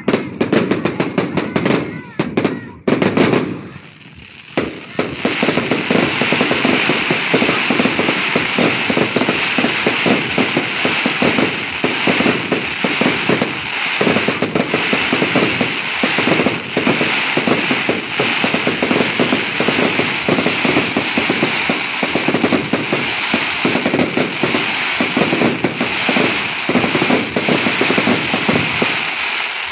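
Fireworks: a dense, rapid crackle of bursting shells for the first few seconds, a brief lull, then from about five seconds in a steady hissing crackle of ground fountains and crackling stars.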